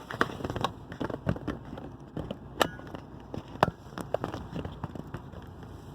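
Handling noise from a mobile phone being moved and set up again: irregular clicks and knocks on the microphone, a few sharper ones around the middle.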